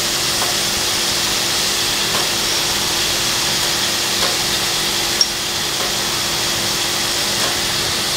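Diced beans, capsicum and carrots sizzling steadily in oil in a non-stick wok, with a few faint clicks.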